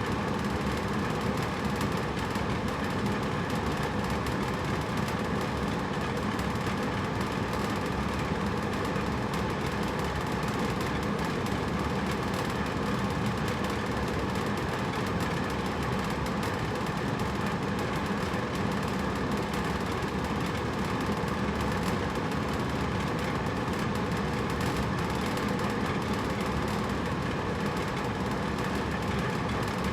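Hotel room air conditioner running steadily: an even rushing of air with a low hum underneath.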